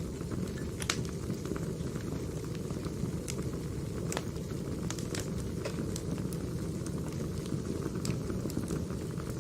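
Burning firewood crackling: a steady low noise of the fire with scattered sharp pops at irregular intervals.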